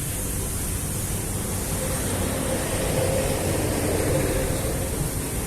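High-pressure washer spraying steadily: a constant hiss over a low machine drone.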